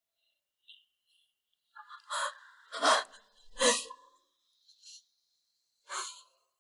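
A person gasping and breathing sharply: three loud gasps in quick succession about two seconds in, then two softer breaths, the last near the end.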